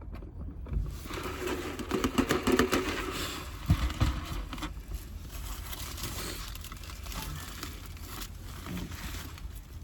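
Rustling and crinkling handling noise, busiest in the first half with a couple of knocks around four seconds in, over a steady low rumble.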